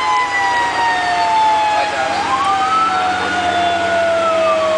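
Pierce Quantum fire engine responding with its siren wailing. One tone slides slowly downward, while a second climbs about two seconds in and starts falling again near the end, over a steady low hum.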